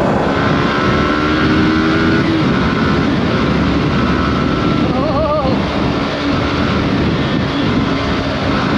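Yamaha R15 V4's single-cylinder engine on its stock exhaust, running hard at speed, its pitch climbing over the first couple of seconds and then holding steady. Heavy wind rush on the rider's microphone runs under it.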